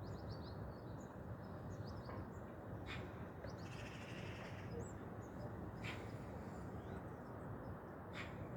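Small birds chirping faintly, a scatter of short high chirps and little glides, with a few sharp clicks about three, six and eight seconds in. A low steady hum runs underneath.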